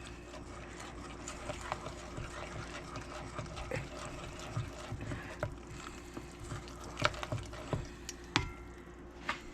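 Bread dough being mixed in a bowl: faint, with scattered light clicks and knocks over a steady low hum.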